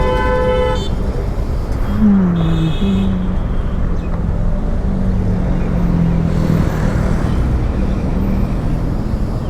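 Dense city road traffic heard from a moving motorcycle. A vehicle horn sounds for the first second and another short horn about two and a half seconds in, over a steady low drone of engines and road noise.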